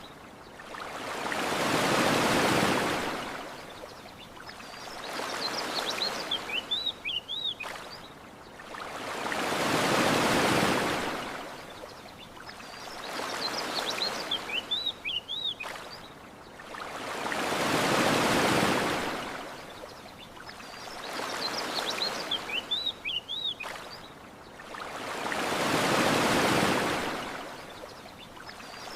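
Gentle ocean waves washing onto a shore, each swelling and fading over about four seconds, with a bigger wave every eight seconds. Small birds chirp briefly in the lulls between swells, and the whole pattern repeats every eight seconds like a looped recording.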